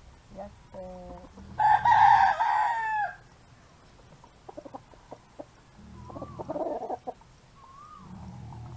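A rooster crowing once, a long call of about a second and a half ending in a falling tone, about two seconds in; a shorter, quieter call follows about six seconds in.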